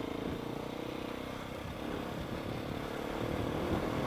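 KTM 690 motorcycle engine running under the rider off-road through mud, holding a steady note at first, then wavering and changing pitch from about halfway as the throttle varies.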